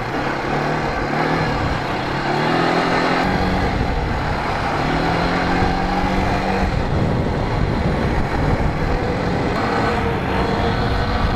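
Polaris ATV's air-cooled engine running under way, its pitch climbing twice as the quad accelerates. A heavy low rumble of wind on the microphone sets in about three seconds in.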